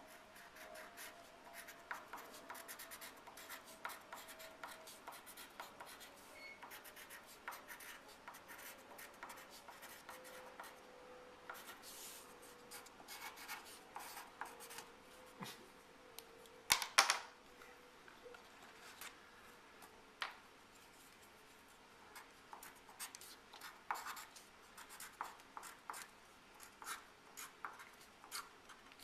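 Faint, irregular scratching and clicking, with a brief louder cluster of clicks about two-thirds of the way through.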